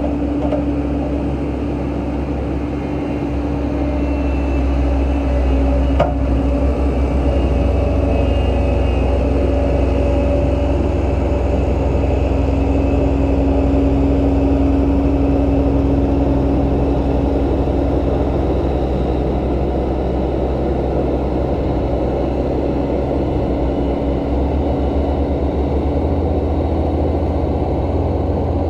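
Heavy earthmoving machine's diesel engine running steadily, with a constant low hum and a single sharp clank about six seconds in.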